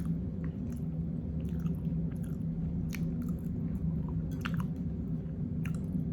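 A person chewing food with the mouth open, with wet lip smacks and mouth clicks every second or so, over a steady low hum.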